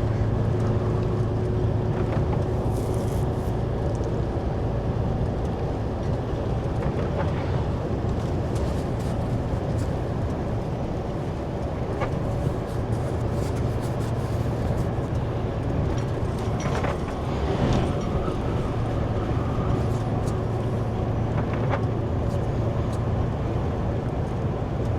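Truck tractor's engine and road noise heard inside the cab while driving: a steady low drone with an even rushing noise, and a few faint clicks now and then.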